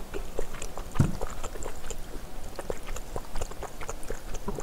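Close-miked eating sounds: chewing a mouthful of kimchi and rice, a steady run of small wet clicks, with a soft knock about a second in.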